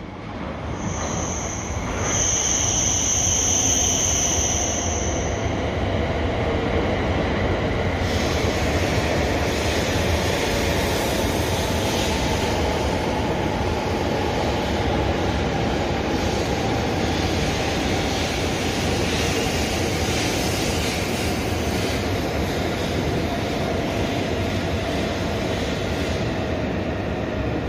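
E7 series Shinkansen train running in along the platform as it slows to stop, with a steady rushing rumble from the passing cars. A high squeal sounds for a few seconds near the start, and a faint whine falls slowly in pitch as the train brakes.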